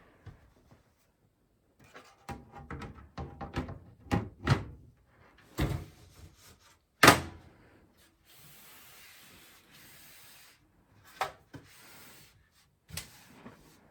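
Hands handling PC case parts and components: a run of small clicks, taps and knocks of metal and plastic, with one sharp loud click about seven seconds in, followed by a soft hiss for about two seconds and a few more clicks.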